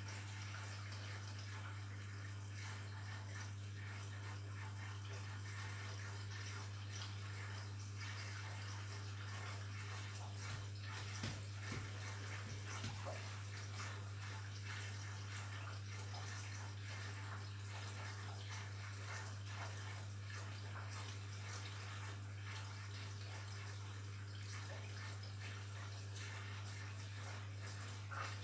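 Washing machine washing a load of bed linen, water sloshing in the turning drum over a steady low motor hum, with a few soft knocks about halfway through.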